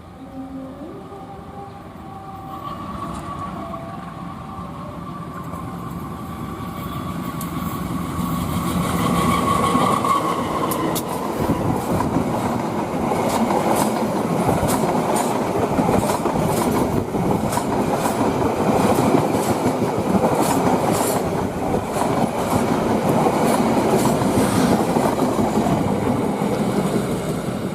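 Passenger train approaching and passing close by, growing louder over the first ten seconds with a steady high tone. From about ten seconds in, its carriages go by at speed, wheels clacking rapidly over the rail joints.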